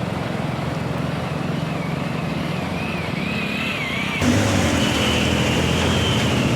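Vehicle engine running steadily, with an abrupt change to a louder engine sound about four seconds in.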